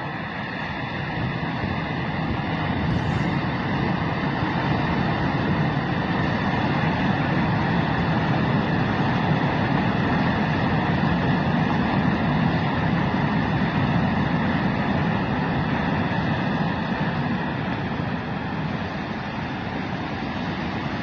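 Road traffic noise: a steady rumble of vehicles and tyres on a road that swells toward the middle and eases near the end.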